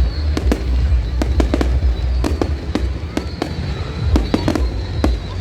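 Aerial fireworks going off in rapid succession: many sharp bangs and crackles, several a second, over a continuous low rumble, with a faint high whistle running through.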